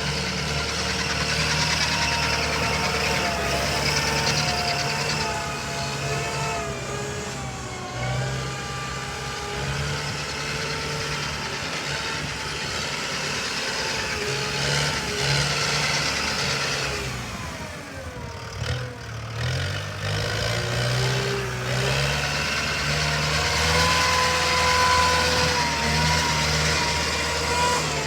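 Kubota M108S tractor's diesel engine running, its pitch rising and falling several times as the engine speed changes, with a brief drop in engine speed a little past the middle.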